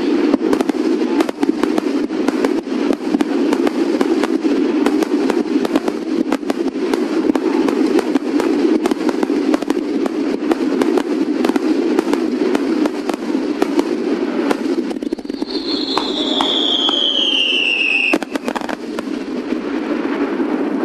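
Fireworks going off in a dense, continuous run of crackling pops over a steady rushing noise. About fifteen seconds in, a whistle falls in pitch for about three seconds.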